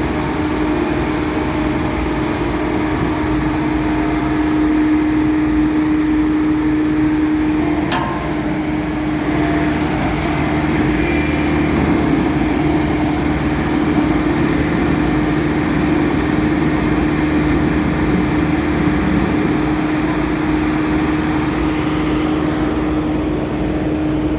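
Diesel engine of a Bomag vibratory roller running steadily under load with a constant hum, as the roller struggles to climb onto a truck. One sharp knock about eight seconds in.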